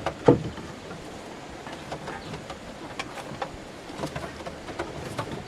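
Irregular knocks and clicks, a strong knock near the start and lighter taps scattered through the rest.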